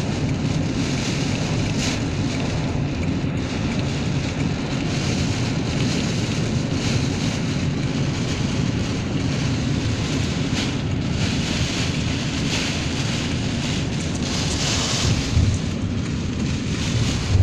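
Typhoon-force wind blowing hard and buffeting the microphone in gusts, a steady rushing noise; two low thumps near the end.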